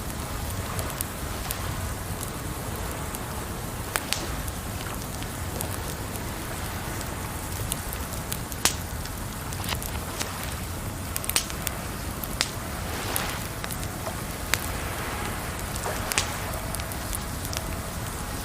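Campfire crackling with scattered sharp pops, the sharpest about nine seconds in, over a steady rush of running water.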